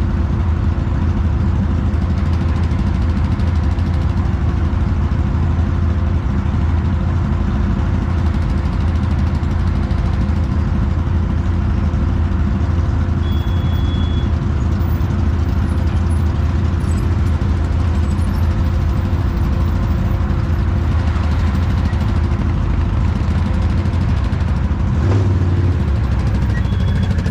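Off-road vehicle engine running at a steady speed: an even, loud drone with a constant low hum and no revving.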